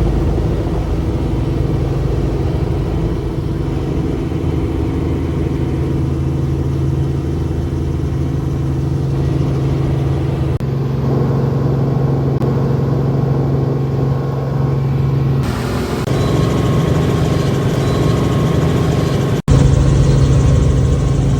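Helicopter engine and rotor running steadily: a loud, constant drone with a steady low hum and overtones. The sound shifts abruptly three times, with a brief dropout near the end, where clips are cut together.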